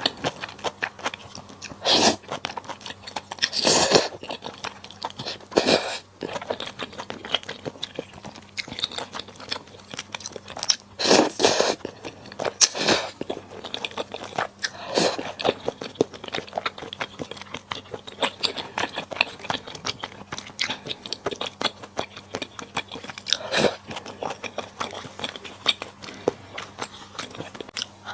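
Close-miked eating sounds of a person eating malatang: steady chewing and crunching with many small wet clicks, and louder bursts every few seconds.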